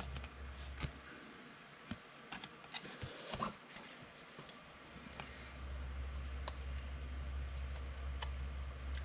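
Faint, sparse light clicks and taps at irregular intervals, over a low steady hum that cuts out about a second in and comes back after about five and a half seconds.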